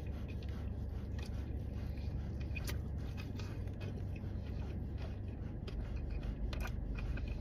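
A person biting into and chewing a blackened chicken sandwich on a soft bun, with a few faint, scattered crunchy clicks over a steady low hum.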